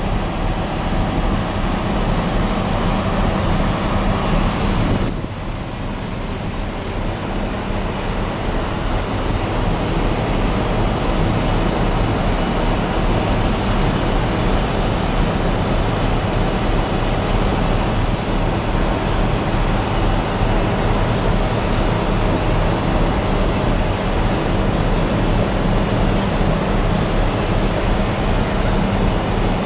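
Heavy vehicle's engine running steadily. Its level dips about five seconds in, then builds back up over the following seconds.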